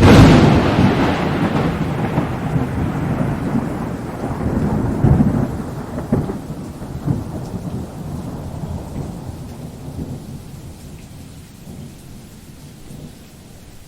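A thunderclap breaks suddenly and rolls on as long rumbling thunder, swelling again a few times and slowly dying away, over steady rain.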